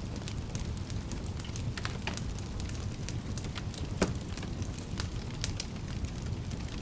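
Wood fire crackling: a steady low rumble of burning with scattered sharp pops and snaps, the loudest one about four seconds in.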